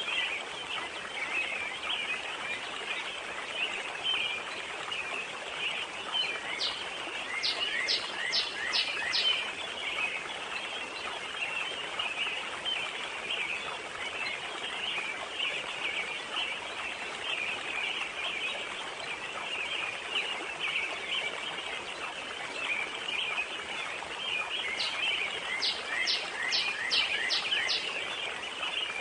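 Forest pond ambience: a steady hiss of water and wind under a dense, continuous high chirping of birds and insects. Twice, about a quarter of the way in and again near the end, a bird sings a short phrase of about six quick notes.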